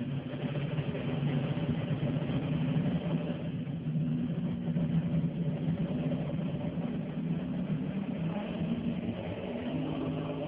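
Steady low mechanical hum with several held tones, at an even level throughout.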